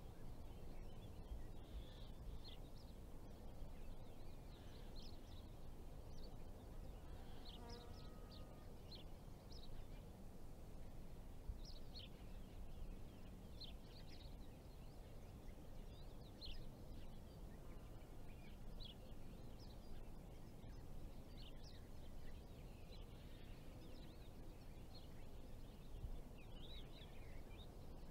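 Faint outdoor ambience: birds giving short, scattered chirps throughout, over a low steady background rumble.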